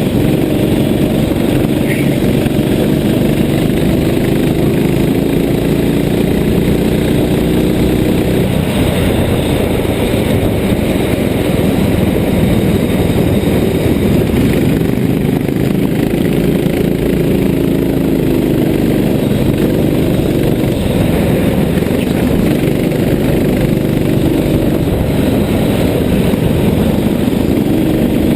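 Vehicle engine running steadily under a constant rushing noise. Its note rises slowly and falls away twice, as if gathering speed and then easing off.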